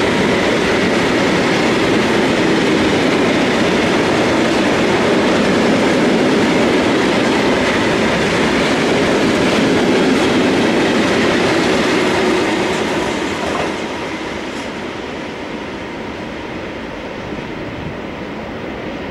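Freight train of coal hopper wagons rolling past close by, a steady rumble and clatter of wheels on rails. The sound drops away about two-thirds of the way through as the last wagon passes and the train moves off.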